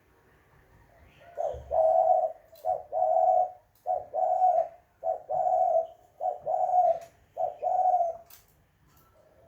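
Spotted dove cooing: a run of about six low two-part coos, each a short note followed by a longer one, spaced a little over a second apart. Faint high chirps of small birds are heard between them.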